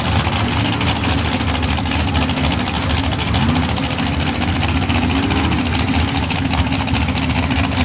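Sand-drag truck engines idling, with a couple of short revs rising in pitch about three seconds in and again about five seconds in.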